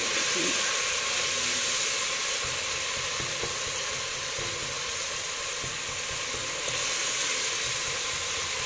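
Onion, tomato and spice masala frying in hot oil in a metal pot, a steady sizzle, turned now and then with a wooden spatula.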